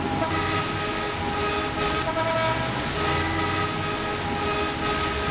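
A recorded sound effect: several steady tones held together over a continuous low rumble, played at a steady loudness without a break.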